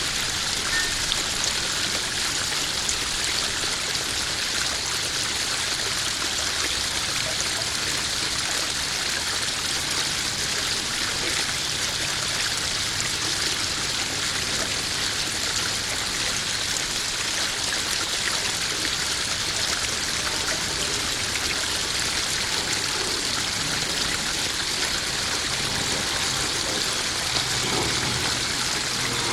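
Small garden koi pond waterfall running steadily, water splashing and trickling into the pond.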